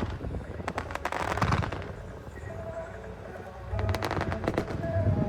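Fireworks bursting in rapid crackling volleys with low booms, one cluster about a second in and a longer one from about four seconds in.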